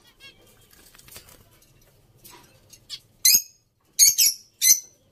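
A bird calling: four short, high-pitched calls in quick succession in the second half, after a quiet start.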